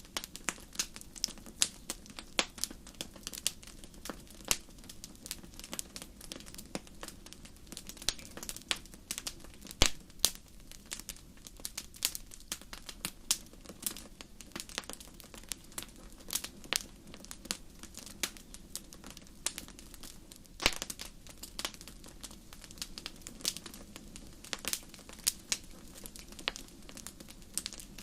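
Wood fire burning in a fireplace, crackling and popping irregularly over a steady low hiss, with a few louder sharp pops.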